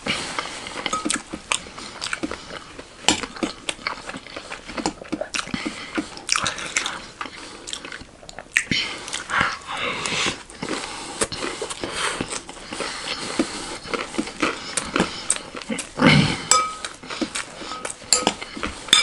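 Crunchy, close-up chewing of chatpatey, a spiced puffed-rice snack, with a metal spoon clinking and scraping in a glass bowl between mouthfuls.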